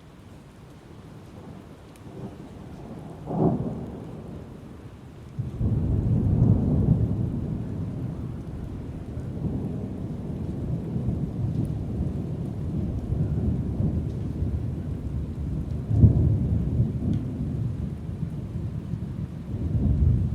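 Thunderstorm: thunder rumbling over steady rain. A sharp crack comes about three seconds in, then a loud rolling rumble breaks in suddenly and runs on, with another sharp crack later and a fresh swell near the end.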